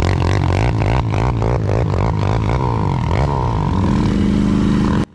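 ATV engine running and revving, its pitch rising and falling, then held higher near the end before cutting off abruptly.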